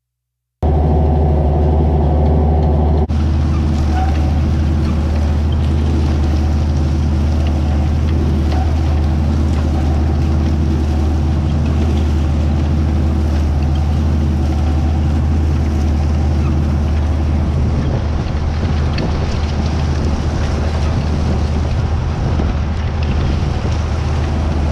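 White 2-150 four-wheel-drive tractor's diesel engine running steadily at a working pace, a loud, deep, even drone.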